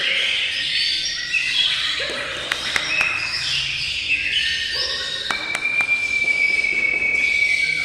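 Songbirds singing together in a dense run of chirps, trills and whistles, with a few sharp clicks. About five seconds in, one bird holds a long steady whistle.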